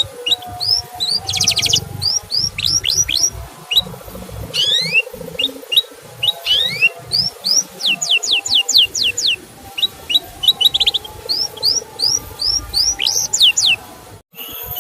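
Male canary chirping: a quick string of short rising "cuit" notes, with a couple of fast trills and a run of sharp falling whistles, briefly cutting out near the end.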